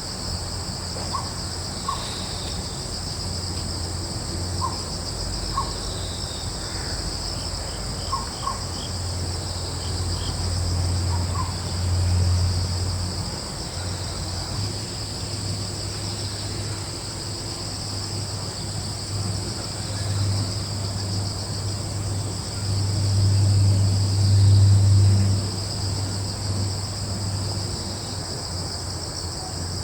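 Steady chorus of crickets trilling without a break, with a few short bird chirps in the first dozen seconds. A low breeze rumble swells twice, briefly about twelve seconds in and most loudly a little past the middle.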